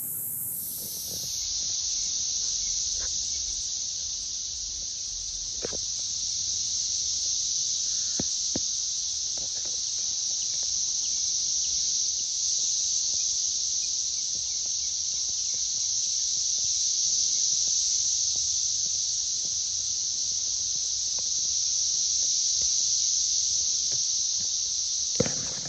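Steady high-pitched insect chorus droning on without a break, with a few faint clicks and knocks now and then.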